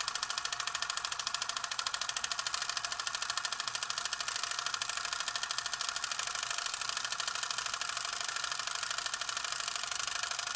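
A steady, fast mechanical rattle like a small motor running, made of rapid even pulses, starting abruptly out of silence.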